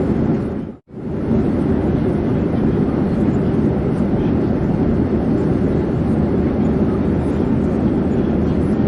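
Steady low rumble of an airplane in flight, even and unchanging, with a brief sudden dropout to silence just under a second in.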